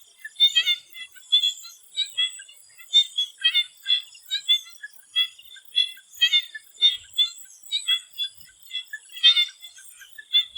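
A chorus of swamp frogs calling: short, repeated high calls overlapping at about two to three a second, over a steady high-pitched hum.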